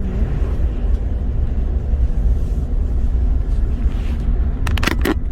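Car road noise heard from inside the cabin while driving: a steady low rumble of engine and tyres. A few brief sharper sounds come near the end.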